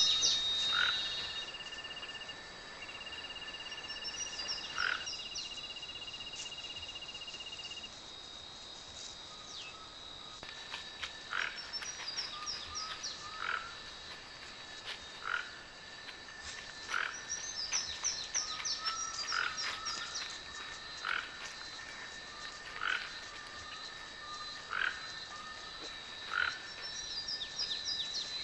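Frogs calling over steady high trills, with a short call repeating about every two seconds from about ten seconds in.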